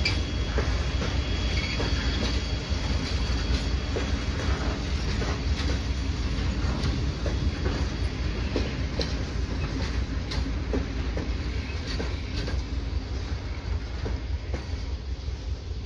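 Train rolling past, a steady heavy rumble with repeated clicks of wheels over rail joints, easing off slightly near the end.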